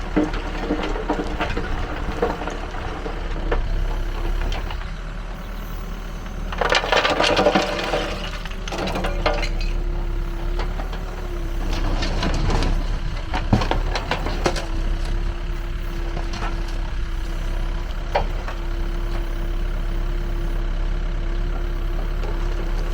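Backhoe loader's diesel engine running steadily while the roller screening bucket works, with bursts of soil and rubble clattering and rattling in the bucket. The loudest burst, a couple of seconds long, comes about seven seconds in, with more rattling around twelve to fourteen seconds in.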